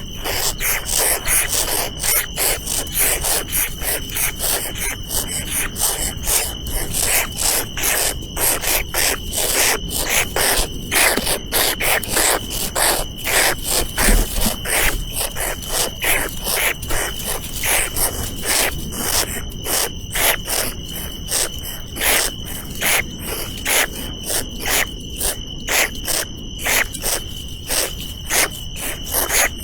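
Insects calling outdoors: a steady high-pitched drone with many short rasping pulses, several a second.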